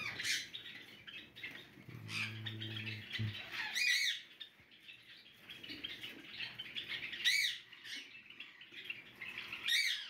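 Java sparrows chirping, with three louder rising-and-falling calls spread through, and a low hum lasting about a second near the start.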